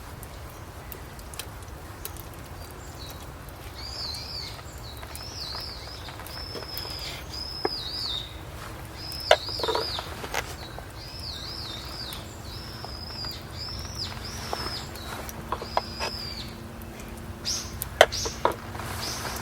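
A wild bird calling over and over in a long run of short, wavering high chirps. A few sharp clicks and knocks come through, the loudest near the end.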